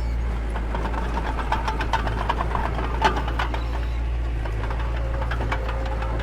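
Diesel engine of a mini bulldozer running steadily, with scattered clicks and knocks over it, the sharpest about three seconds in.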